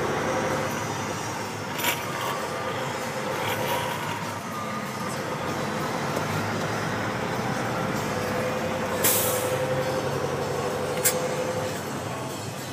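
Dump truck running, heard from inside the cab: a steady engine drone with a humming tone, sharp rattling clicks about two seconds in and near the end, and a short hiss of air about nine seconds in.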